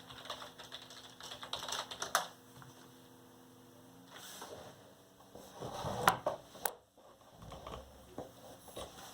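Typing and clicking on a computer keyboard, in short bursts during the first two seconds, then a few sharper clicks around six to seven seconds in. A faint steady hum underneath.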